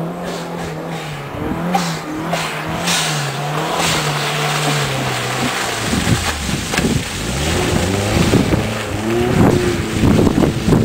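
Toyota RAV4 engine driving off-road through mud. It runs at a steady pitch at first, then about six seconds in it revs up and down unevenly as the wheels churn through the mud.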